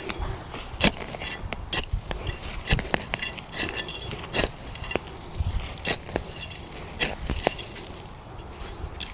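Metal hand trowel digging through soil in a raised garden bed, with repeated sharp clinks and scrapes.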